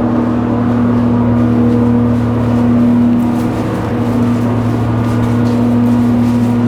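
A motor running steadily: a constant hum with a rushing air hiss over it, starting just before and holding level throughout.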